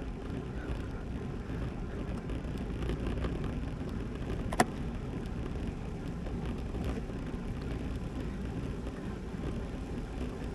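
Road bike riding on pavement: steady wind and tyre noise, with a single sharp click about four and a half seconds in.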